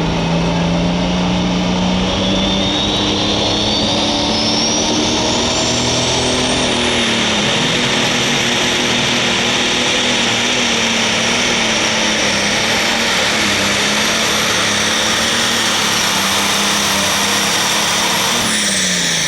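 Super stock pulling tractor's turbocharged engine running at full power through a pull. A high turbo whine climbs steadily over the first several seconds and holds, then both whine and engine fall away near the end as the tractor comes off the power.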